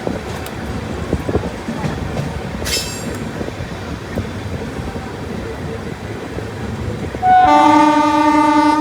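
Passenger train running along the track with a steady rumble and clatter; about seven seconds in, the locomotive's horn sounds loudly and holds for about a second and a half.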